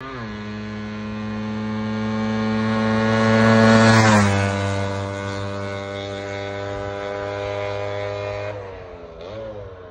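Small two-stroke scooter engine held at steady high revs as it passes by: the note grows louder, drops in pitch at its loudest point about four seconds in, then fades, and near the end the revs fall and waver.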